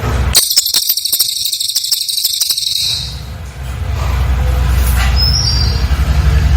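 Cililin bird song: a dense, very rapid high-pitched trill lasting about two and a half seconds, then a pause with one brief high note. A low steady hum underlies the quieter parts.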